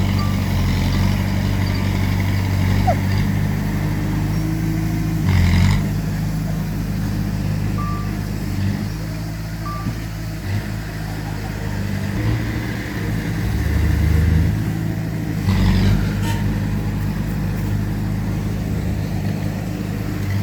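Heavy diesel engines of earthmoving machinery, a bulldozer and dump truck, running steadily, with two short hissing bursts about five and fifteen seconds in.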